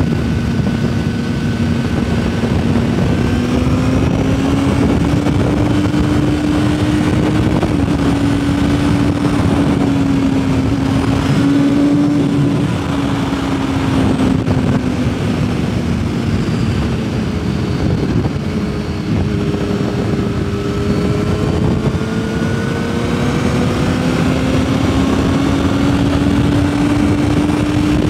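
Yamaha R6 600 cc inline-four engine pulling at a steady high cruising speed, its pitch drifting gently up and down with the throttle. It dips for a moment about two-thirds of the way through and then climbs again. Heavy wind rush on the bike-mounted microphone runs under it.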